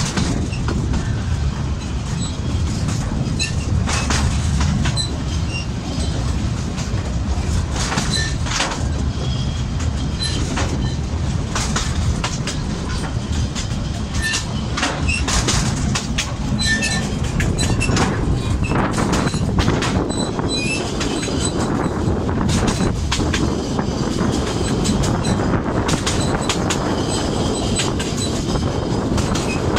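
Narrow-gauge train running, heard from an open-sided carriage: a steady rumble of the wheels on the rails with irregular clicks and knocks, and brief high-pitched wheel squeals.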